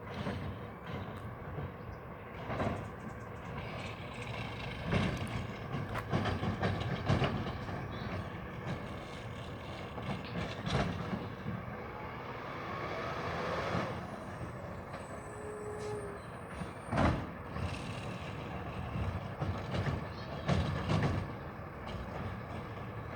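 Garbage truck running, with repeated knocks and clanks throughout and a brief gliding whine about halfway through.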